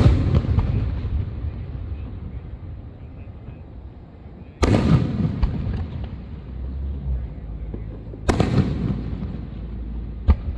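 Fireworks shells bursting: a loud boom at the very start and two more about four seconds apart, each trailing off in a long low rumble, then a short sharp crack near the end.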